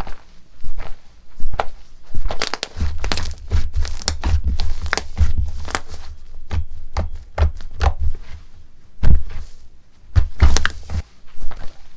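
Slime being handled and squeezed, giving a run of sharp clicks and crackling pops, thickest between about two and six seconds in and again near the end.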